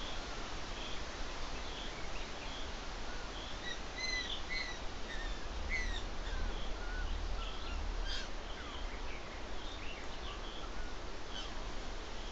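Small birds calling, with a cluster of short rising and falling chirps in the middle and a faint high note repeating about once a second, over a steady hiss and low rumble.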